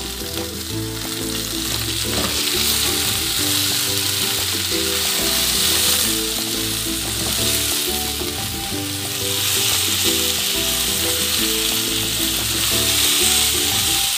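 Chopped okra and garlic sizzling as they fry in hot oil in a pot, stirred now and then with a wooden spoon. Background music plays underneath.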